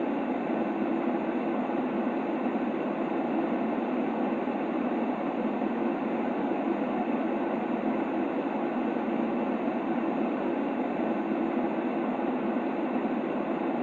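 Steady white noise for soothing a baby to sleep, a constant, unbroken hiss weighted toward the low end.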